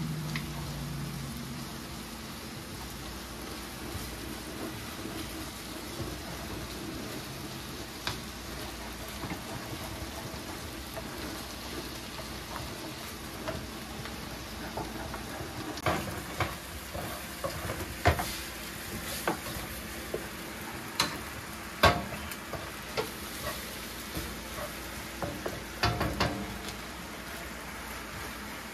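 Beef and onion stir fry sizzling in a hot pan, a steady hiss. From about halfway through, a utensil stirring the food knocks and scrapes against the pan every second or so.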